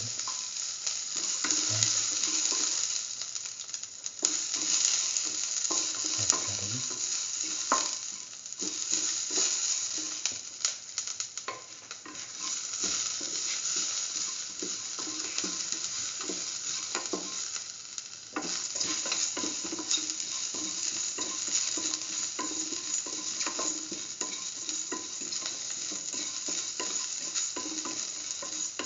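Mustard and fenugreek seeds frying in hot oil in a steel pan, a steady sizzle with scattered clicks and crackles. Sliced shallots are added partway through and stirred around the pan, the sizzle continuing under the scraping.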